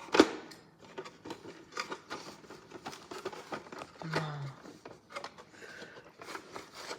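Plastic parts of a toy washing machine being handled and fitted together: irregular clicks, taps and light scrapes, with one sharp knock right at the start.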